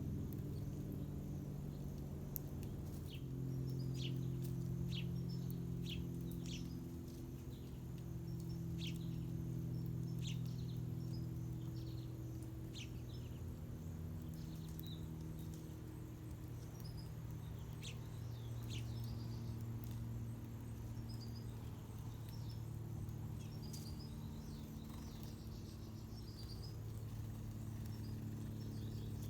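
Small birds chirping in short, quick downward-sweeping calls, thickest in the first half, over a steady low mechanical hum that shifts slowly in pitch now and then.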